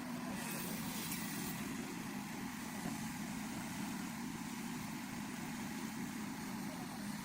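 Heavy earthmoving machinery engine running steadily at an even pitch during a pulling recovery in mud and water.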